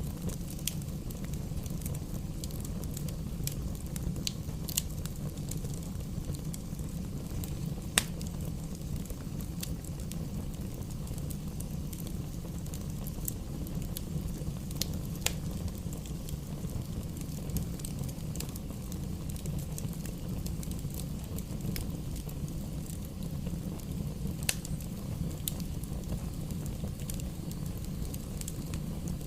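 Bonfire crackling: scattered sharp pops over a steady low rumble, with one louder pop about eight seconds in.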